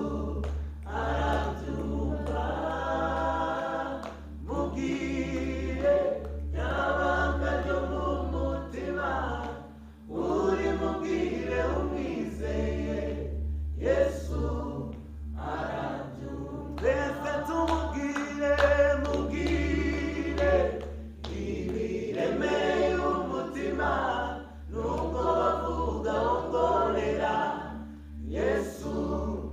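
A group of voices singing a worship song together in phrases of a few seconds, with short breaks between them. A steady low hum runs underneath.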